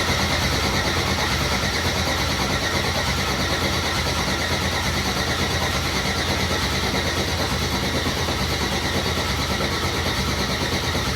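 Freshly built drift car engine turning over on its starter motor without firing: a steady, evenly pulsing crank, run to build oil pressure before the first start.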